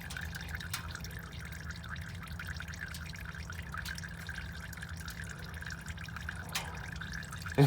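Used engine oil draining steadily out of the 2003 Ford F-150's 4.2 L V6 oil pan after the drain bolt is pulled, a continuous pouring and splashing stream. A brief sharp sound comes at the very end.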